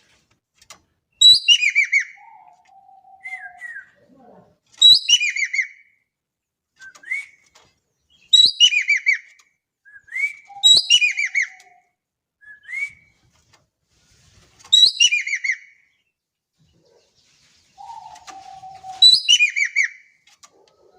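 An ekek keling (jovin) songbird singing repeated loud phrases, each a quick cascade of notes falling in pitch, about every two to four seconds. Between them come short rising whistled notes and a few lower, softer notes.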